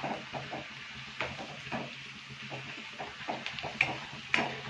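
Thin raw potato slices frying in shallow oil in a wok, with a steady sizzle. A metal spatula stirs and scrapes them, clinking against the pan a few times, most sharply twice near the end.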